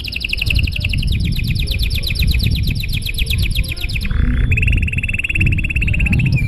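Domestic canary singing a long, continuous song of rapid repeated notes. About four seconds in, the song switches to a lower, faster rolling trill. A low rumble runs underneath.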